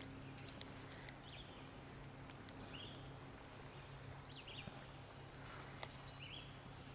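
Faint outdoor ambience: short bird chirps every second or two over a steady low hum, with a few light clicks.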